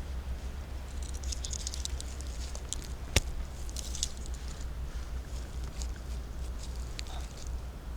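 Footsteps through dry forest litter: irregular crackling of leaves and small twigs, with one sharp snap about three seconds in, over a steady low rumble.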